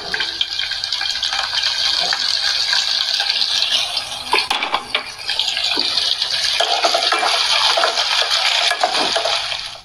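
Sliced onions and green chillies sizzling in hot oil in a saucepan, a steady frying hiss, with a few light clicks. Near the end they are stirred with a wooden spatula.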